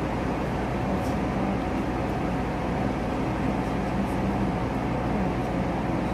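Steady rumble and hum of a passenger train running.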